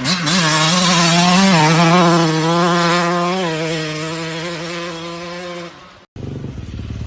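Dirt bike engine held at high revs, its pitch wavering a little, fading near the end and then cutting off suddenly.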